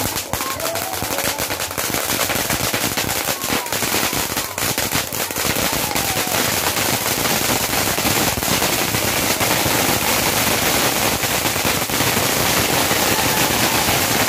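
A long string of firecrackers going off in a continuous rapid crackle.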